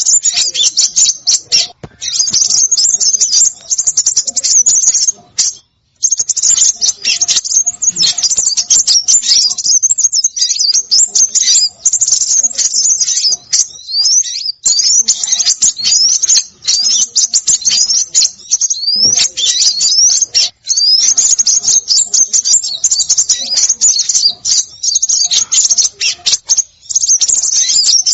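A noisy chorus of small songbirds: dense, rapid high-pitched chirps and quick sweeping notes overlapping almost without pause, with a couple of brief breaks. It is a bird-trapping lure call recording.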